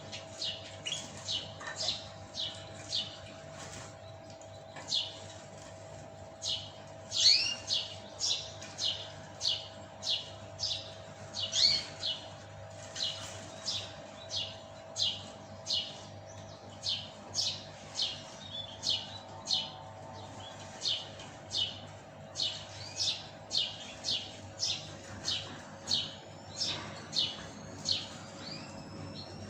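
Canary chirping: a long run of short, sharp, high call notes repeated about twice a second, over a faint steady hum.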